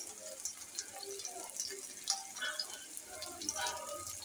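Raw beef keema kebabs sizzling in hot oil on a tawa griddle, with a steady hiss and scattered crackles and pops of spattering oil.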